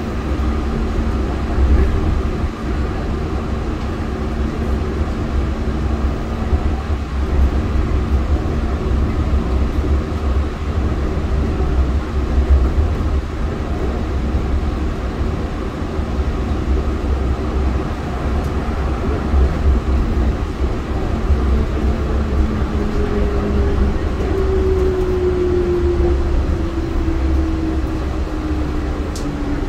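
Yurikamome driverless rubber-tyred train running on its elevated guideway, heard from inside the car: a steady low rumble with a motor hum. In the last several seconds a whine slides down in pitch as the train slows toward a station.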